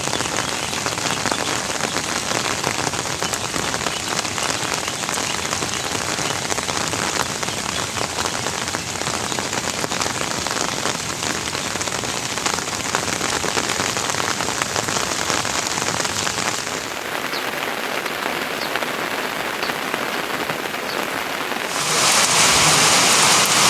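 Steady rain falling. Its sound changes abruptly about two-thirds of the way through and then grows louder and hissier near the end.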